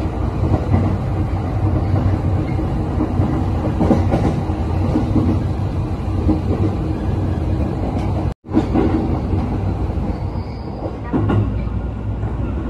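Running noise heard from inside a JR East E531 series electric train moving along the line: a steady rumble of wheels on rail. The sound cuts out for an instant about two-thirds of the way through.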